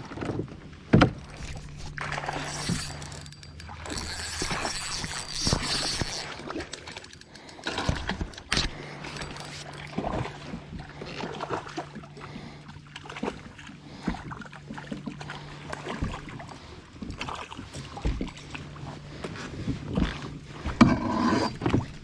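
Knocks and clatter of handling in a kayak, with water noise and a low steady hum that stops and restarts a few times.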